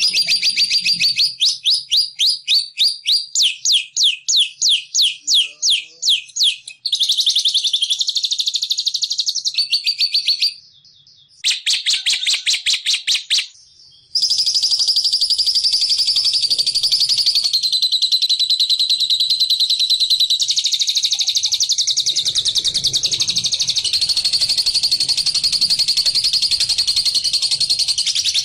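Recorded songbird call played as a lure for bird trapping. It starts as a rapid series of high chirping notes, about four a second, goes to denser trills broken by two short pauses, and from about halfway on runs as one continuous high trill.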